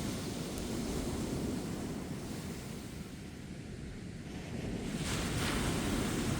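Ocean surf on a beach: a steady low rumble of waves that eases a little, then swells into the hiss of a breaking wave about five seconds in. Light wind on the microphone.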